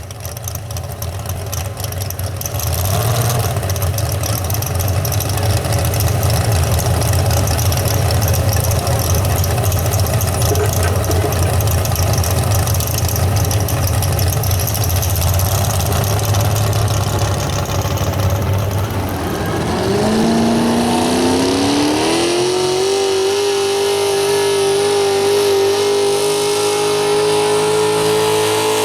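Super stock 4x4 pulling truck's engine running hard at full power, a loud steady roar. About two-thirds of the way through, the engine note rises and then holds at a high steady pitch.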